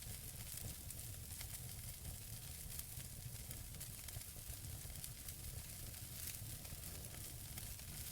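Wood fire burning in a fireplace: logs crackling with frequent small, irregular pops over a steady hiss and a low rumble.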